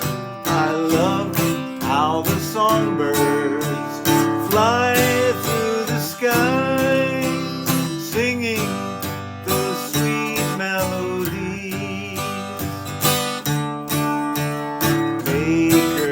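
Music: strummed acoustic guitar with a lead melody above it that slides and wavers in pitch.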